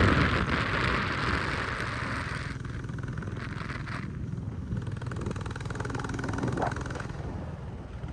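Royal Enfield Classic motorcycle running steadily while being ridden, with a hiss of air noise over it for the first couple of seconds.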